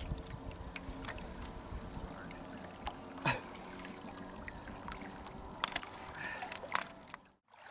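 Boat motor running at a steady hum, with scattered sharp knocks and clicks, cutting out briefly near the end.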